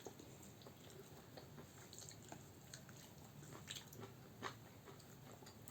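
Faint chewing and mouth sounds of people eating, with scattered soft clicks, the clearest about four and a half seconds in, over near silence.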